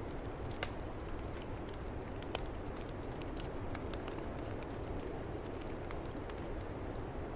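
Wood fire crackling with scattered small pops, two louder ones about half a second and two and a half seconds in, over the steady low rush of a snowstorm's wind.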